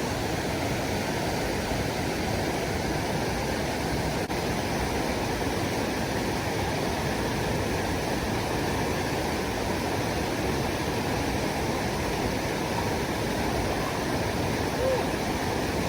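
Steady rushing water, as of a stream, a constant even noise.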